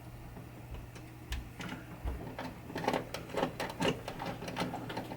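Irregular light clicks and taps of small plastic and metal parts being handled as a pinball pop bumper assembly is fitted back onto the playfield, over a faint steady low hum.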